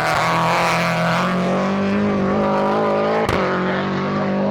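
Race car engine running hard at high revs, its pitch holding steady and slowly rising, with a single sharp crack about three seconds in.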